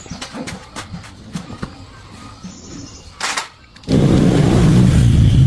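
Light clicks and taps of work on a Honda 110 motorcycle, a short scrape about three seconds in, then the bike's single-cylinder engine suddenly starts and runs loud and steady, a sign that the repaired ignition now gives spark.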